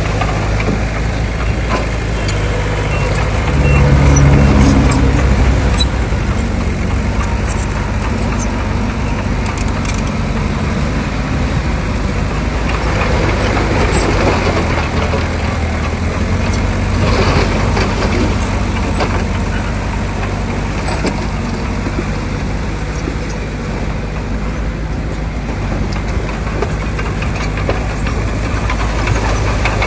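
Heavy earthmoving machinery's diesel engine running steadily under load, briefly louder about four seconds in.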